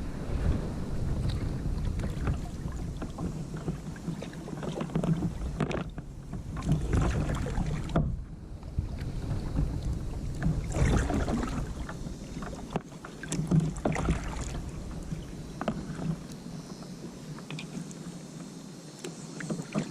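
Kayak paddling: irregular swishes and splashes of the paddle blades in the water, over a low rumble that drops away about three-quarters of the way through.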